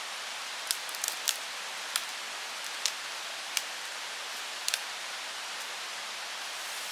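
Wood campfire crackling, with sharp pops at irregular intervals over a steady hiss.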